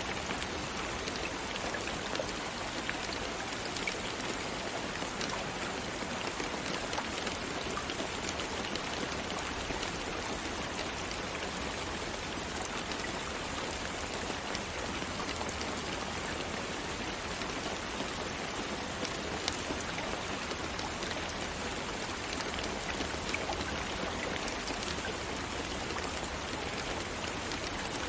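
Steady rain falling, a continuous hiss of drops with fine individual drop ticks scattered through it.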